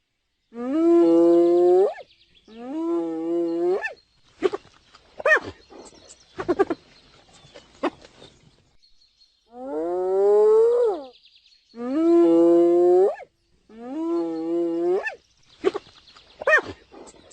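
A wild animal calling: drawn-out pitched calls of about a second and a half each, in groups of two or three, with bursts of short sharp calls between them. The sequence repeats about ten seconds later.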